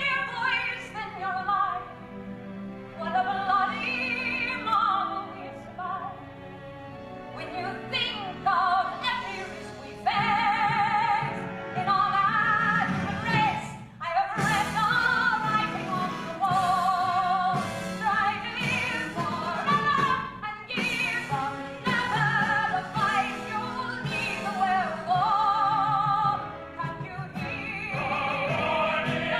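A female Broadway singer sings a show tune with wide vibrato over orchestral accompaniment, moving into a long held note near the end.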